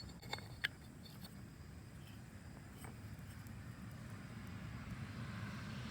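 A couple of faint, short metal clicks in the first second, then one fainter click, from the new friction disc and its bolts being handled and lined up. A low steady background hum lies underneath.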